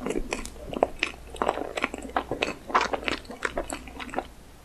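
Close-miked chewing of a mouthful of cake: wet, sticky mouth sounds with small clicks and smacks, stopping about four seconds in.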